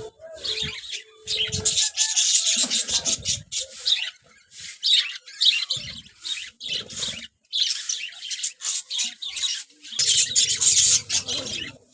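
A colony of parrots chirping and chattering, many calls overlapping in quick stuttering runs, with a low noise underneath briefly near the end.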